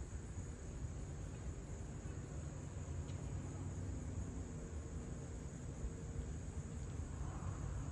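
Steady high chirring of insects, over a low, uneven rumble.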